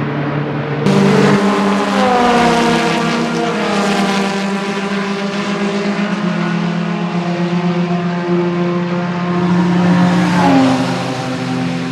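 Vintage race cars running at speed, their engine notes loud and continuous. About a second in a car comes close with a sudden jump in loudness and its pitch drops as it goes by; near the end another car's note rises and then falls as it passes.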